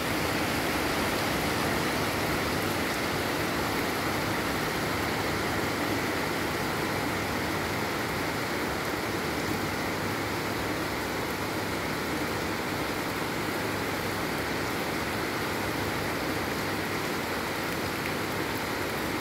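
Heavy rain pouring down steadily, a dense, even hiss that does not change.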